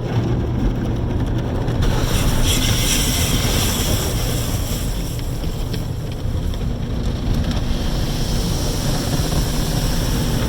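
Car wash machinery running: water spraying and rushing over a steady motor hum.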